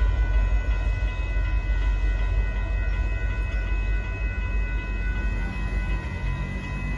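Union Pacific freight train of box cars rolling past with a low rumble that fades over the last couple of seconds as the train clears the crossing. Several steady high ringing tones are held over it throughout.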